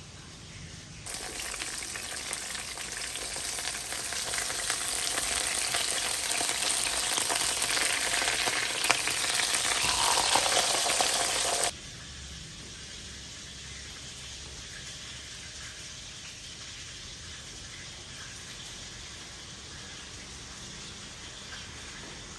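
Food sizzling in a frying pan, a dense crackling hiss that starts suddenly about a second in, grows louder, and cuts off abruptly about halfway through, leaving only faint steady background hiss.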